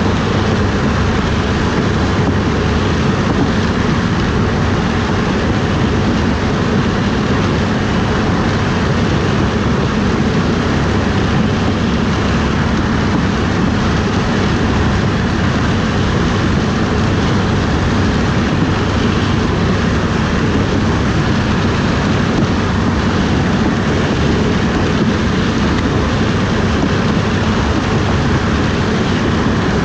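Heavy harvest machinery running at a steady, unchanging pitch: a constant low engine hum under a wide noise from the working machine.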